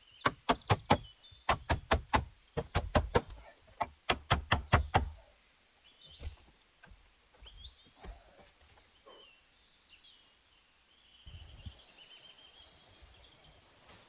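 A quick run of sharp knocks, about three or four a second, of something hard being struck repeatedly, stopping about five seconds in. After that, small birds chirp faintly.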